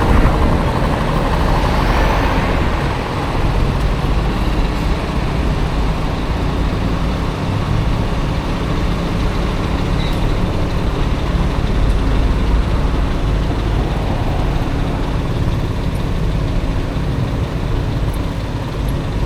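Riding noise from a Honda Motocompo mini scooter with a swapped-in Honda Dio engine moving through city traffic: a steady rush of wind and road noise with the small engine running and traffic around it.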